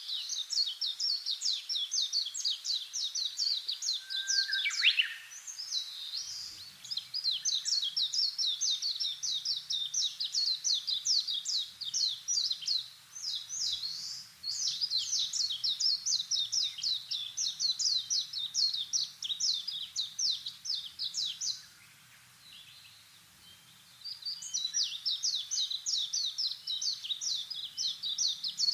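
A bird singing long, fast trills of rapidly repeated high chirps, four phrases of several seconds each with short pauses between, and a single downward-sliding note early in the first phrase.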